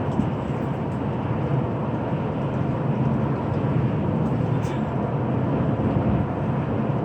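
Steady engine drone and road noise inside a coach bus driving at speed.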